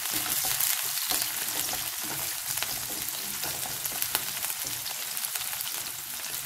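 Cubed onions with crushed garlic and ginger sautéing in hot oil in a wok, stirred with a wooden spatula: a steady sizzle full of fine crackles.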